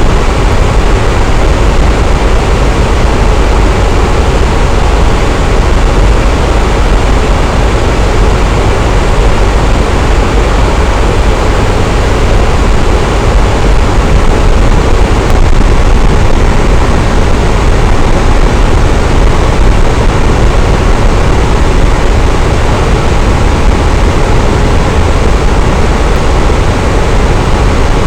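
Electric fan running steadily: a loud, even whoosh of moving air with a low rumble underneath and no change in speed.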